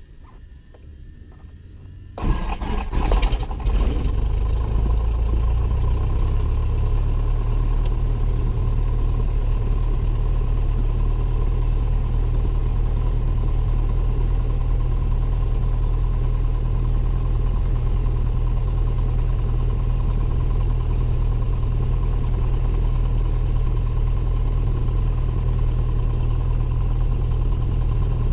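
Cessna 172N's four-cylinder Lycoming O-320 engine being started: about two seconds in the starter cranks it over unevenly, it catches about four seconds in, and then it settles into a steady idle.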